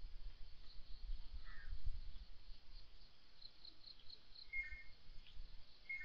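Quiet outdoor ambience with a few short bird chirps: one about a second and a half in, one near the end, and a quick run of about five high pips a little past halfway. All of it sits over a steady hiss and low rumble.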